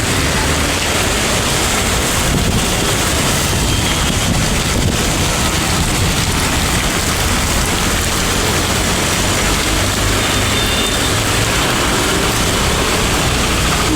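Steady, loud noise of heavy rain mixed with a vehicle running.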